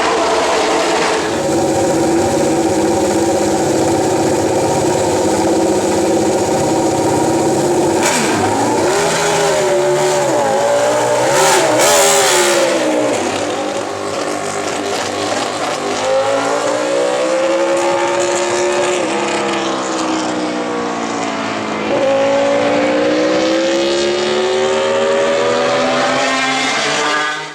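Ducati MotoGP racing motorcycle engine running at high revs, steady at first, then its pitch repeatedly rising and falling as it is revved up and eased off. It cuts off suddenly at the end.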